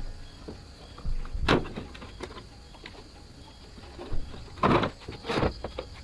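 Intermittent knocks and clatter, like hard objects being handled, with two loud clusters, one about a second and a half in and another around five seconds in.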